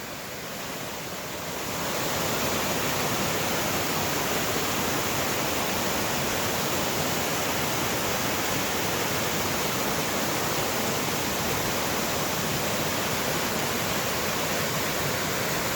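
A 40 ft waterfall rushing steadily, heard from the top of the falls; the roar swells about two seconds in and then holds steady.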